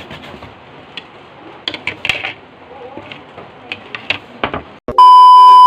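Scattered light clicks and knocks of kitchen utensils being handled. About five seconds in, a loud, steady electronic beep cuts in.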